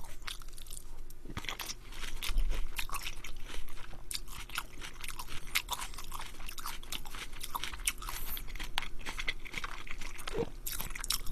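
A person chewing a mouthful of crisp fresh salad greens close to the microphone: a steady run of wet, crunchy bites.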